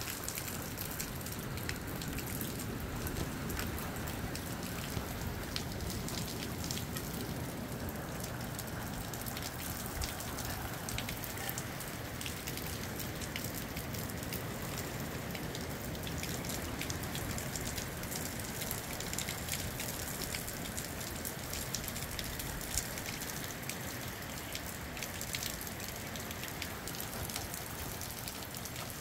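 Moderate rain falling steadily, with many individual drops ticking sharply, over a low rumble of gusty wind.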